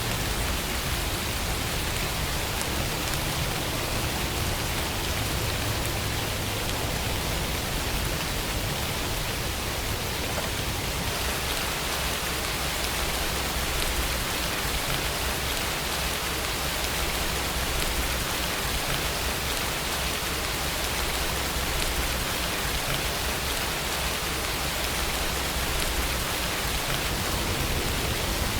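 Steady rainfall: an even, unbroken hiss of rain with a low rumble underneath.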